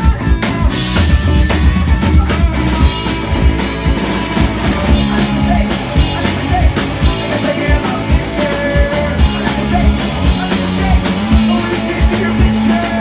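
Live rock band playing a song: drum kit keeping a steady beat under guitar, with singing.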